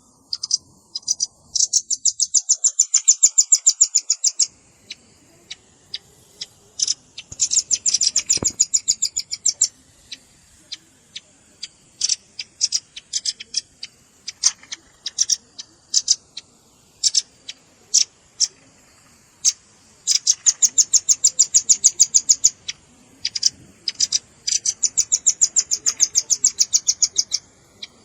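Velvet-fronted nuthatch calling: rapid trills of sharp, high chipping notes, each lasting a second or two, with scattered single chips between the trills.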